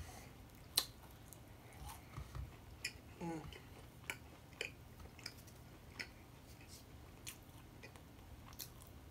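Close-miked eating sounds: quiet chewing with occasional sharp, wet mouth clicks spaced a second or so apart, and a short hum from the eater about three seconds in.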